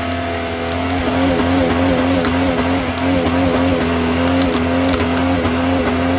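Car engine held at steady high revs during a burnout, with a constant hiss and squeal of spinning tyres.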